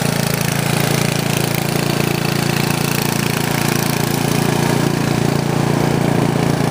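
An engine running steadily at an even speed, a constant mechanical hum.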